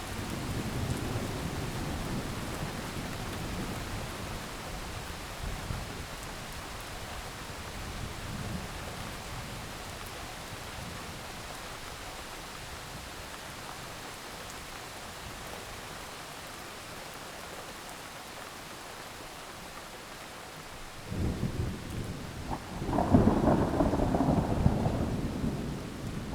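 Heavy rain falling steadily during a thunderstorm. A low roll of thunder fades over the first few seconds. Late on, thunder rumbles in again and swells into the loudest clap near the end.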